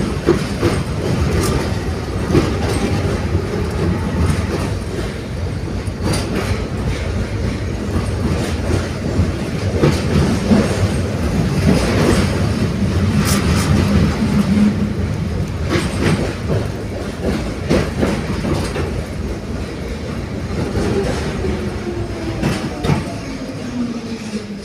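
71-631 tram car running along the track, wheels clacking over rail joints. Near the end a tone from the drive slides downward as the tram slows.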